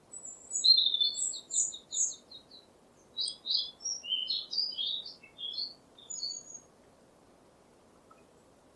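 Songbird singing: a quick trill of repeated high notes, then a varied run of high chirps and warbles that stops about two-thirds of the way through.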